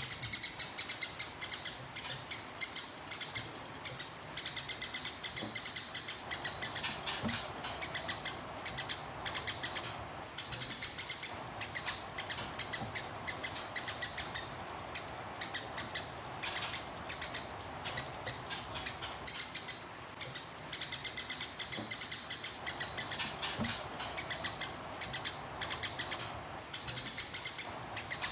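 Eurasian tree sparrow ('burung gereja') in fighting mode, chirping very fast in long, dense rolling runs broken by short pauses every few seconds.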